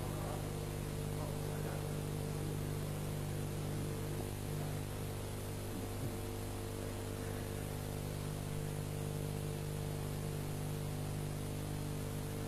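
Steady electrical hum with a constant hiss from the recording's sound system, with no voice. A single faint tick falls about six seconds in.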